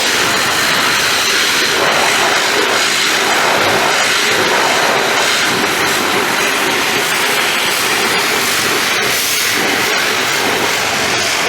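Steady, loud hiss of a high-pressure water jet spraying.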